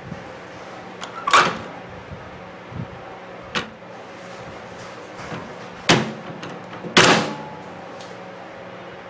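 Panasonic inverter microwave oven handled: four sharp clunks and clicks like the door latch and panel. The loudest come about a second and a half in and about seven seconds in, over a steady low hum. The oven does not start because its inverter circuit board is burnt out.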